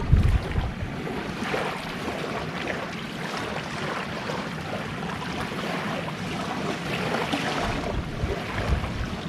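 Gentle sea waves washing onto a beach in a steady wash of surf, with wind buffeting the microphone briefly at the start.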